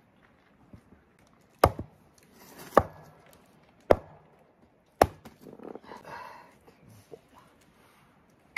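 Four sharp knocks about a second apart, each a single hard strike, followed by a soft rustle.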